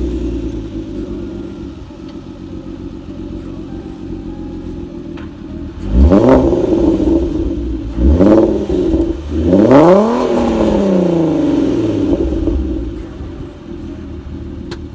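Volkswagen Golf R32's 3.2-litre VR6 engine idling just after start-up, revved three times, about six, eight and ten seconds in, the third rev the longest and slowest to fall back to idle.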